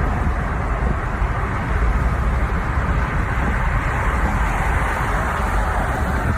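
Loud, steady rumbling noise with no clear tone.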